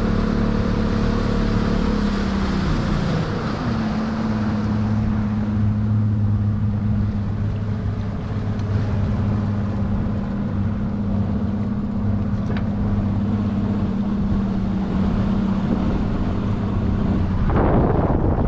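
Boat motor running steadily, its pitch dropping about two to three seconds in and then holding, with wind on the microphone and a brief rush of wind or water near the end.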